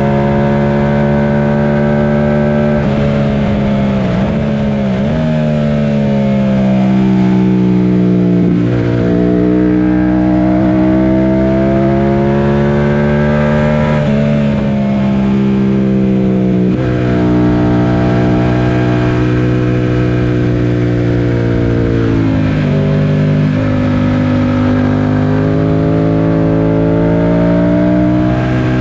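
Yamaha FZ-07's 689 cc parallel-twin engine under hard acceleration on a race track. Its pitch climbs steadily through each gear and drops sharply at every shift or braking point, about half a dozen times.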